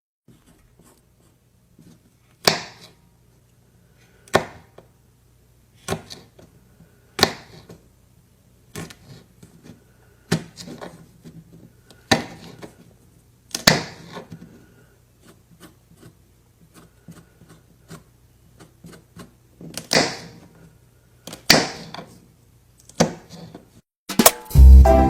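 A series of sharp knocks, one every second or two, over a faint low hum. Loud music starts near the end.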